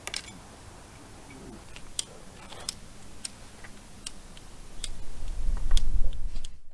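Newly lit campfire crackling, with single sharp pops about once a second. A low rumble builds near the end, then the sound cuts off.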